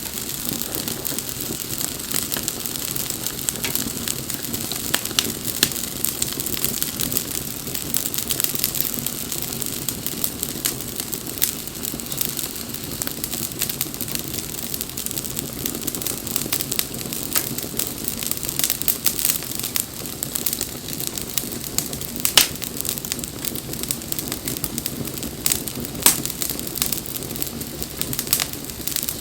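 Wood bonfire burning, crackling steadily with frequent sharp pops and a few louder snaps.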